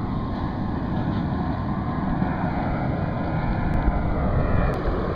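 Steady low rumble of wind buffeting the microphone, with a couple of faint clicks near the end.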